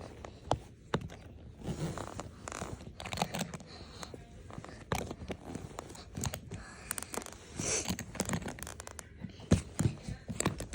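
Rummaging through a packed suitcase: clothes rustling and items scraping, with irregular clicks and knocks of things being handled.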